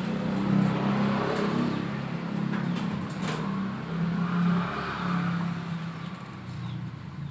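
A motor running with a low, wavering hum, with a few sharp clicks over it, fading a little near the end.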